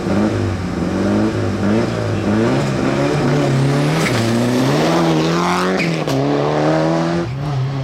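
Rally car engine revving hard on a closed-road stage. Its pitch climbs and drops several times with gear changes and lifts, then holds a longer climb before dropping again near the end.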